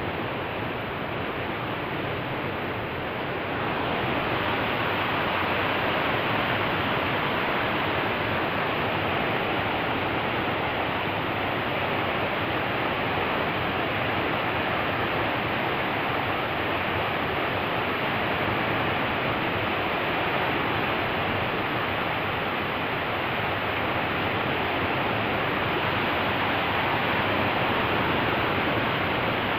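Steady, loud rush of water pouring through the rain catcher. It swells slightly about four seconds in.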